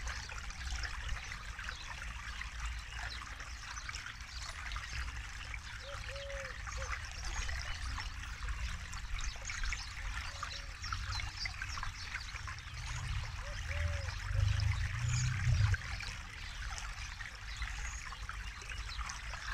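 Forest river flowing, a steady babble and trickle of water, with a low rumble swelling for a few seconds past the middle.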